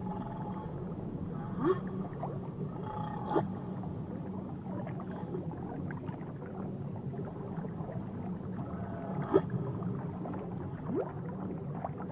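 Whale calls recorded underwater: short rising calls, four times, over a steady low underwater rumble, with faint higher held tones between them.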